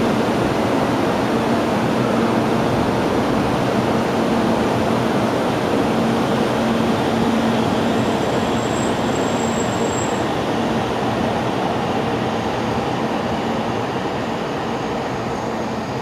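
Kyushu Shinkansen 800 series train pulling out of the station: a steady rumble of motors and wheels with a faint low hum, slowly fading as it draws away.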